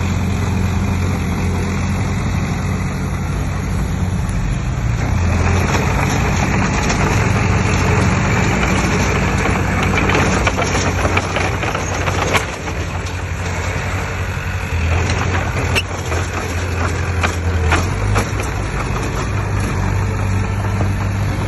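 Heavy diesel engine of earthmoving machinery running steadily. From about five seconds in, a broader rattling noise swells over it, with a few sharp knocks in the second half.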